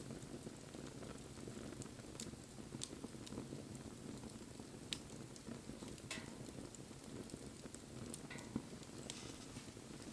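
Wood bonfire burning: a steady low rush of flame with a handful of sharp crackles and pops from the wood at irregular moments.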